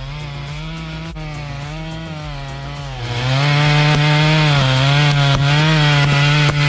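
Stihl MS 462 two-stroke chainsaw running at high revs. About three seconds in it gets louder and hissier as the chain bites into the oak, its pitch sagging briefly under the load.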